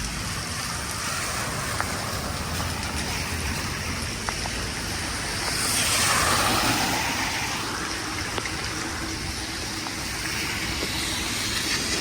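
Steady hiss of heavy rain and wet-road noise, swelling and fading about halfway through as a vehicle passes on the wet road.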